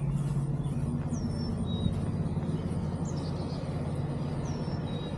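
A petrol lawn mower engine running steadily in the background, with a bird giving a short downward-sliding whistle twice.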